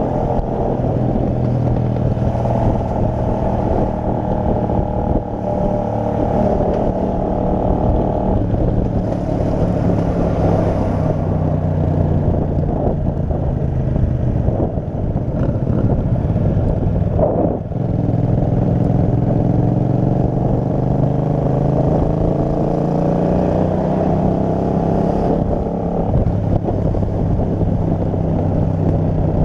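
Kasinski Mirage 250's V-twin engine running at road speed, its note climbing and then dropping at a gear shift roughly a quarter of the way in and again just past halfway, after which it rises steadily as the bike accelerates.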